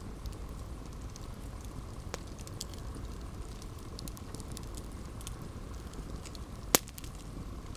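Campfire burning: a steady low rush of flame under frequent small crackles, with one loud sharp pop near the end.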